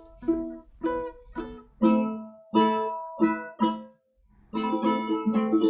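Ukulele played fingerstyle: single plucked notes one after another. After a brief break about two-thirds through, quicker notes follow and ring together.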